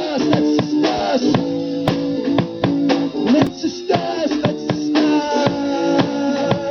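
Live rock band playing an instrumental passage: electric guitar holding and bending notes over a steady drum kit beat.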